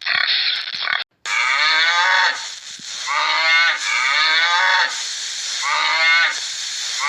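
Cattle mooing: several short moos one after another, each bending in pitch. They follow about a second of rough noise that cuts off abruptly.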